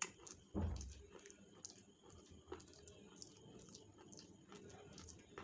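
Slate pencils being bitten and chewed: a sharp snap at the start, a louder dull thump about half a second in, then faint scattered crunching clicks.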